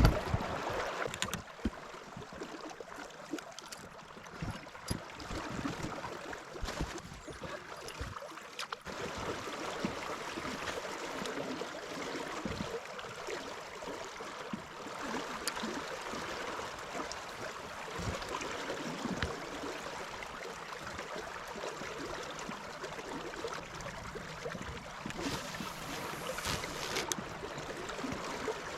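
Steady rush of river water, with scattered faint clicks and knocks.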